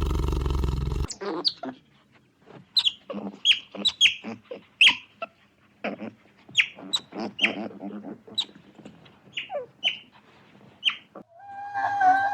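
Many short, high-pitched animal calls, each sliding downward, coming in an irregular string. A loud, roar-like sound cuts off about a second in, and a wavering, flute-like tone comes in near the end.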